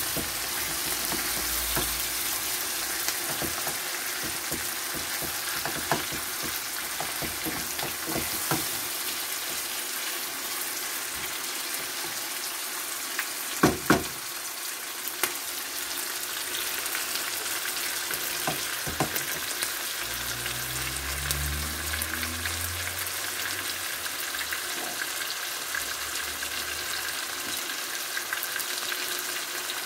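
Chicken pieces and chopped onions sizzling steadily as they fry in oil in a frying pan, with a wooden spatula stirring and scraping now and then. Two sharp knocks about halfway through are the loudest sounds.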